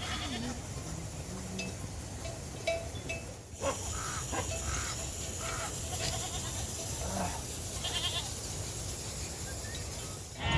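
Goats bleating now and then over a steady low background noise.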